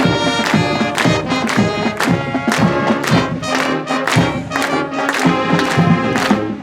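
High school marching band playing its school pep song: brass over a steady drum beat, the song ending right at the close.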